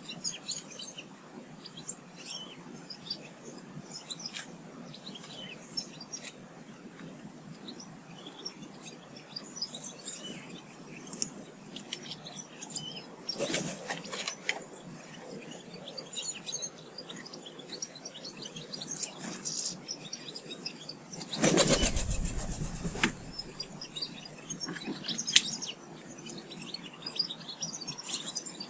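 Small garden birds chirping and calling, many short high chirps. About three-quarters of the way through comes a loud rush of noise lasting about a second and a half.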